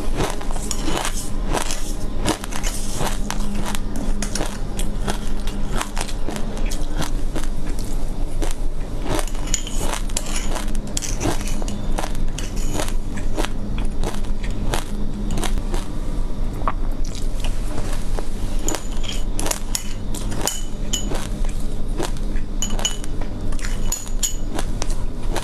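Close-up crunching and chewing of mixed seeds, a dense run of small crisp cracks. Now and then a metal spoon clinks and scrapes on a glass bowl, mostly in the later part.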